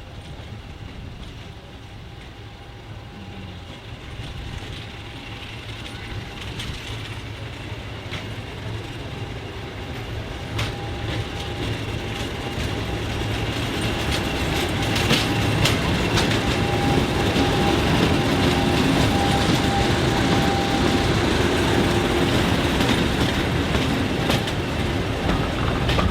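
A train approaching on a heritage railway. Its sound grows steadily louder for about fifteen seconds and then stays loud, with scattered sharp clicks from the wheels on the track.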